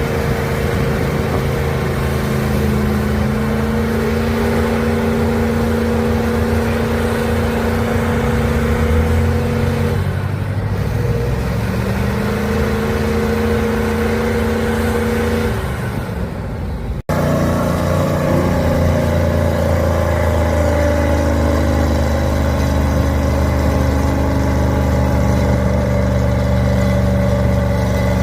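Heavy 6×6 trial truck's engine working hard under load, holding a steady pitch, dipping and picking up again partway through. About 17 seconds in there is an abrupt cut, after which the engine carries on working.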